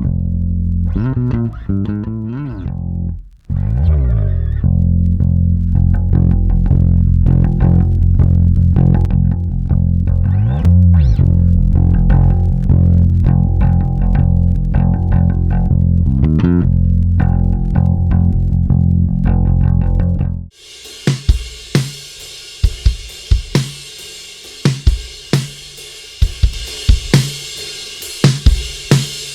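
Isolated electric bass guitar track playing a sustained, low bassline. About 20 seconds in it stops abruptly and a solo drum kit track starts: kick, snare hits and a cymbal wash.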